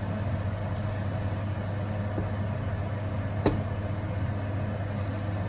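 Steady low mechanical hum from a kitchen appliance running, with one sharp click about three and a half seconds in.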